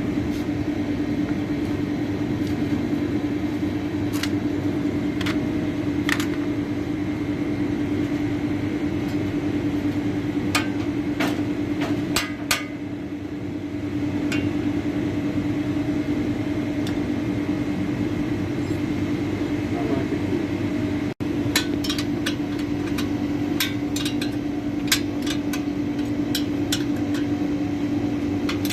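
Scattered sharp metal knocks and taps, like hand tools striking metal brackets, over a steady low machine hum. The knocks come in two clusters, a few seconds after ten seconds in and again near the end.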